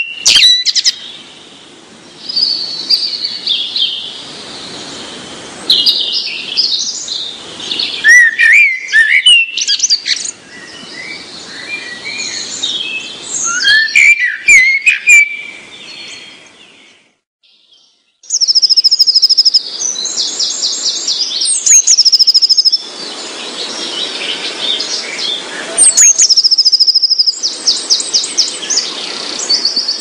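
Songbirds singing: varied chirps and sliding whistles, a brief break a little past halfway, then high, rapid trills repeated again and again.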